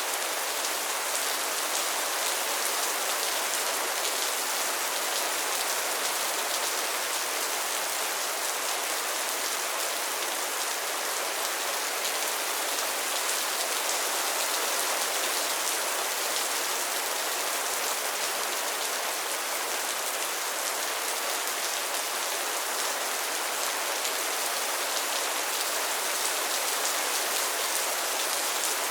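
Steady rain falling on a pond and its lily pads, a dense even patter of drops with no change in strength.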